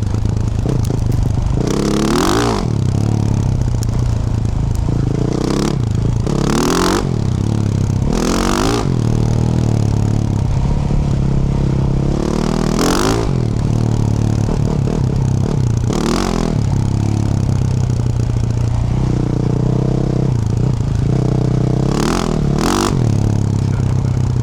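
Yamaha YZ450F's single-cylinder four-stroke engine running through a Yoshimura RS-12 exhaust as the dirt bike is ridden. It revs up hard and backs off about eight times, at uneven spacing, with two close revs near the end.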